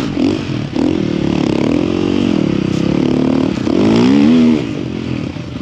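Snow bike's engine revving under throttle, its pitch rising and falling several times as the rider works through deep snow.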